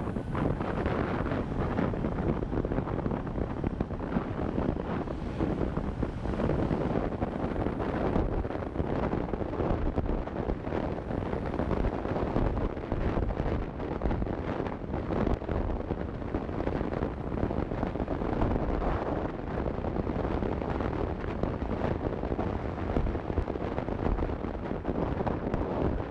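Wind buffeting the camera's microphone on a moving motorcycle, a steady rumbling rush that gusts up and down, with the bike's road and engine noise blended underneath.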